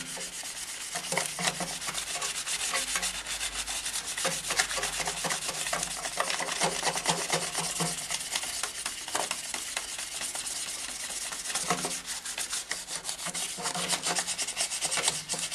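400-grit abrasive paper rubbed by hand over a motorcycle exhaust downpipe in quick back-and-forth strokes under light pressure, taking the pipe's surface back before finer grits.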